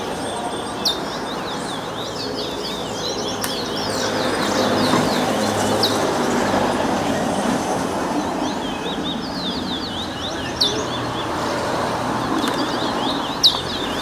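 Songbirds in a whistling competition singing fast chirping phrases in repeated bouts, over a steady murmur of a crowd talking, with a few sharp clicks.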